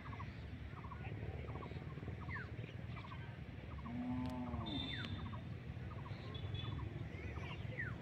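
Small birds chirping over and over in short repeated notes, over a low steady rumble. About four seconds in, a single short pitched call rises and falls.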